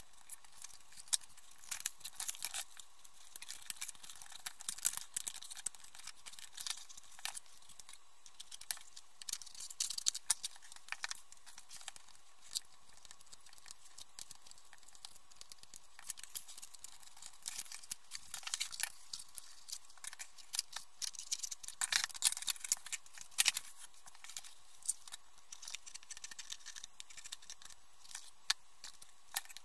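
Paper being handled at close range: irregular rustling and crinkling with scattered sharp clicks.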